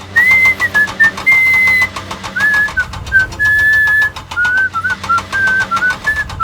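A whistled tune of clear held notes that step and slide up and down, over a small engine chugging steadily underneath.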